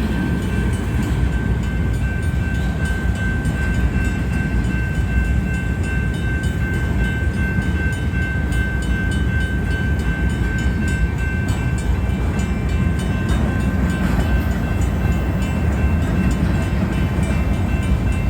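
Freight train cars rolling past at speed: a steady, loud rumble of steel wheels on rail with a thin, steady high-pitched squeal running over it.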